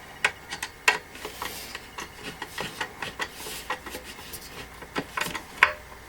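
Hand screwdriver driving a screw into a wooden panel of the stand: irregular clicks and scraping as the screw turns and the driver shifts in the head.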